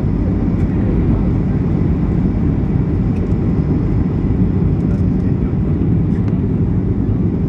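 Steady low rumble inside a Boeing 737-800 cabin in flight on approach: engine and airflow noise at an even level.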